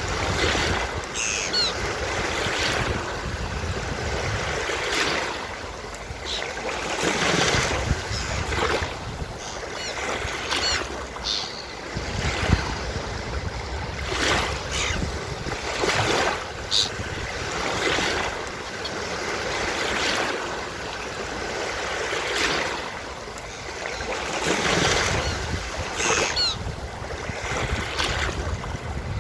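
Surf washing onto a beach in repeated swells, with a few short high calls of seagulls now and then.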